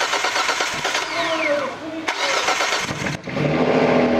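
2005 Hyundai Grandeur TG V6 engine running just after being started, loud, with the exhaust open behind the front catalytic converter and no muffler fitted. The running is rough and pulsing at first, then turns to a steady, even idle about three seconds in.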